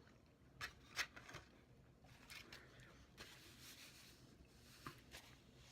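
Near silence with faint eating sounds: a few soft clicks and light scrapes, the clearest about half a second in, about a second in and near the end.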